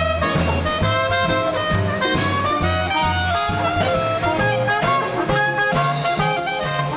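Small-group swing band playing live: saxophone and trumpet lines over a walking bass, with drums.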